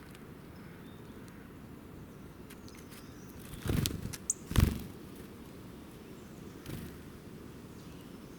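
Outdoor ambience with a steady low rumble and a few faint ticks, a short high bird chirp a little after halfway, and two loud brief rustling thumps around the middle, the second the loudest.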